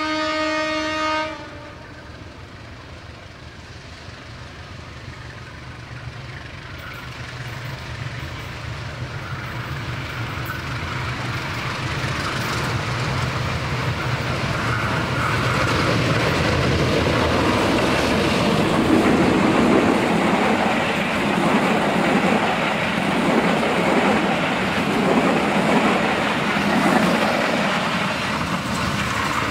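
A train horn blows once for about a second and a half. Then a GE CC 201 (U18C) diesel-electric locomotive approaches and passes, its diesel engine growing louder and louder. Near the end the wheels of the passing passenger coaches clack over the rail joints.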